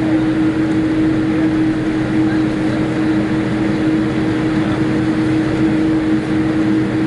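Steady cabin noise inside a Boeing 787-8 Dreamliner taxiing after landing: an even rush of engine and air noise with a constant low hum.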